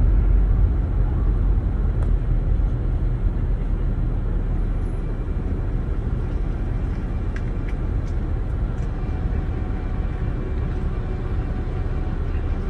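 A vehicle engine running steadily, a continuous low rumble with some hiss.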